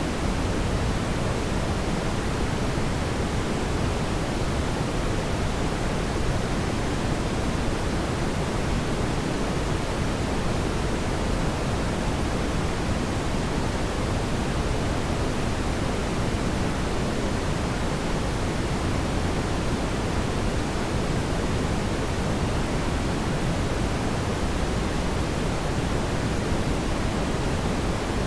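Fireplace ambience: a steady, even rushing noise, strongest in the lows, with no distinct crackles or pops.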